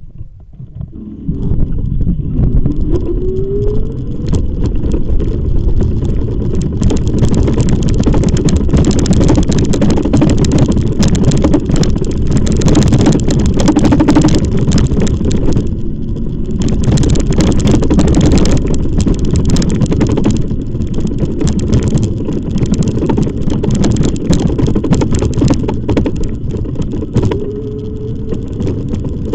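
Loud, continuous rumble of riding on an e-bike, the tyres and the wind on the microphone. A short rising motor whine comes a few seconds in and again near the end.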